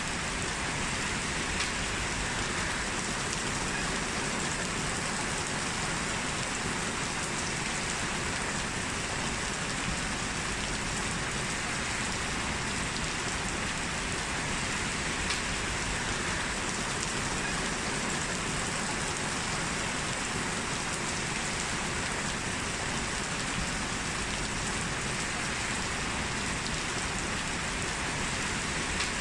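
Heavy rain falling steadily: a dense, even hiss of rain on hard surfaces.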